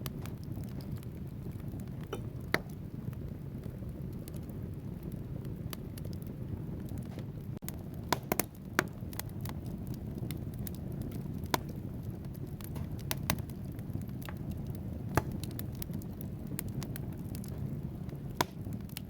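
Wood fire burning in a fireplace: a steady low rumble of flames with logs crackling in scattered sharp pops, including a quick cluster of pops about eight seconds in.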